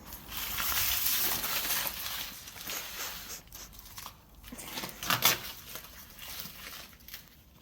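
A large bird of paradise leaf crackling and tearing as a husky tugs at it, with a sharp, louder crunch about five seconds in.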